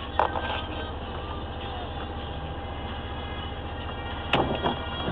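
A steady low mechanical hum, like an engine running, with a few sharp knocks: one just after the start and two near the end.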